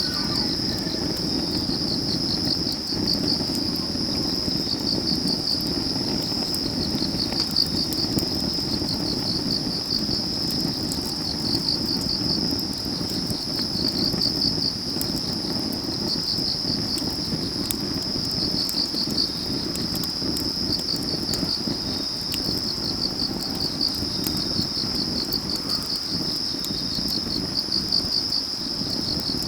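Autumn field crickets trilling steadily in a high chorus, with pulsing chirps running through it, over a wood fire burning with a low rush and scattered small crackles of burning logs.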